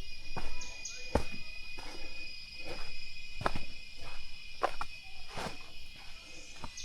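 Footsteps going down stone or wooden steps, irregular footfalls about once a second, over a steady high-pitched drone of forest insects.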